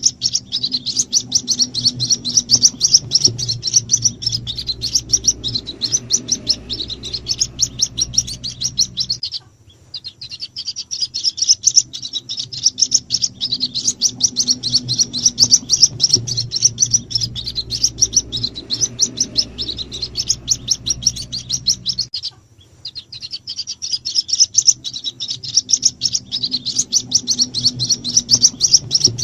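White-breasted waterhen (ruak-ruak) chicks calling: a fast, continuous run of high, thin peeps, many a second, played as a lure call to draw in the parent birds. The calls break off briefly twice and start again, over a low hum.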